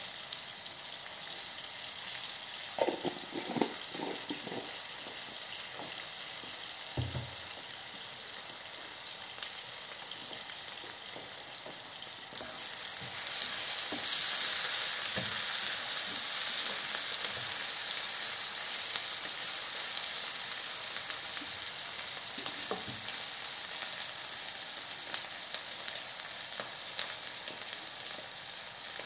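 Onions, green chillies and ginger-garlic paste sizzling in hot oil in a nonstick frying pan while being stirred. The sizzle grows louder about halfway through, and a few light knocks come early on and again later.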